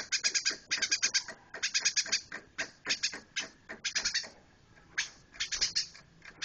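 Eurasian tree sparrow chirping in fast runs of short, high chirps, with a brief pause a little past the middle.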